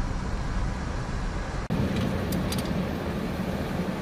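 Steady low rumble of a vehicle's engine and road noise, cut by a brief dropout a little under two seconds in.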